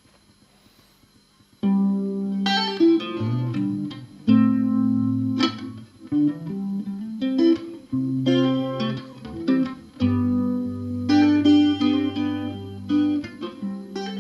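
Fingerstyle guitar intro starting about a second and a half in: plucked melody notes ringing over a low bass line.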